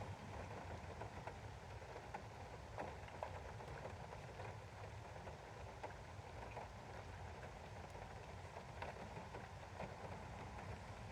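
Steady rain, with many scattered drops ticking against a window pane over a soft low rumble.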